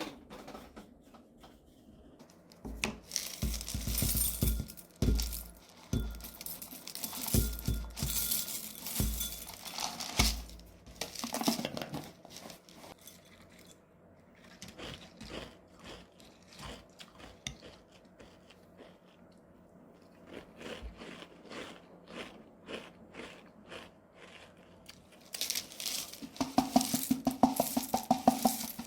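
Crinkling, rustling and tearing of packaging, with scattered clicks and knocks of things being handled, loudest in the first half. Light background music with a quick, regular beat comes in near the end.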